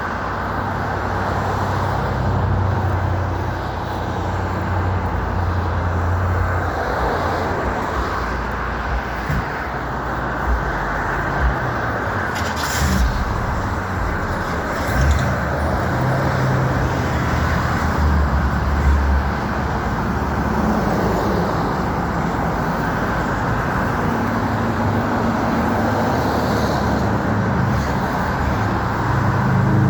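Car engines running with passing road traffic: a steady noise of vehicles whose low engine tones rise and fall as they move, with a brief click about halfway through.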